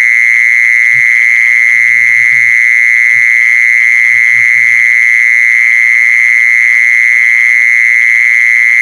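Jeeson insect (แมลงจีซอน) calling in one unbroken, steady, high buzzing trill near a single pitch, with faint murmuring voices and a low hum beneath it.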